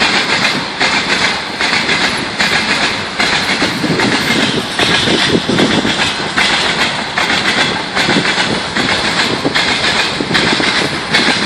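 Train wheels running over the rail joints, with a steady clickety-clack rhythm over continuous rolling noise.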